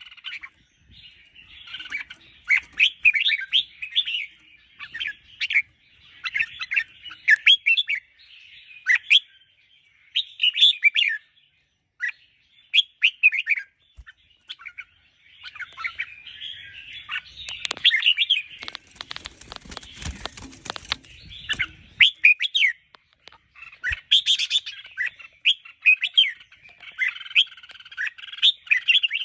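Red-whiskered bulbuls singing short, chirpy phrases again and again, with brief pauses between bursts. About two-thirds of the way through, a few seconds of dense rustling noise cuts across the song.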